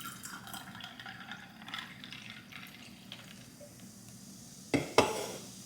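Light handling noises and small clicks, then two sharp knocks about a quarter second apart near the end.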